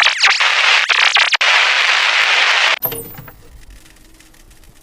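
Loud static hiss, like an untuned radio or TV, with a few quick falling glitch sweeps at the start and a brief dropout. It cuts off abruptly about three seconds in, leaving a faint low rumble with quiet steady tones that fades.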